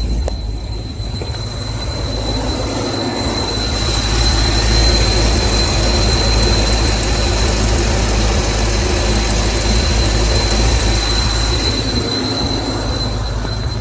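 Vehicle engine running, with a steady high-pitched whistle over the engine noise.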